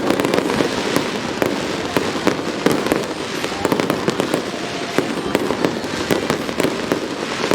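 Fireworks display: aerial shells bursting in a rapid, continuous run of sharp bangs and crackles, several every second.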